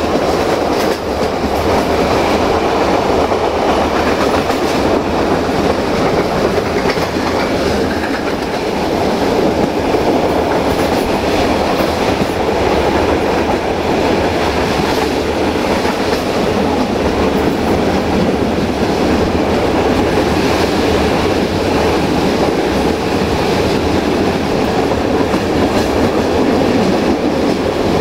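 Passenger coach rolling along the track at speed: a steady rumble of wheels on rail, with some clickety-clack from the rail joints.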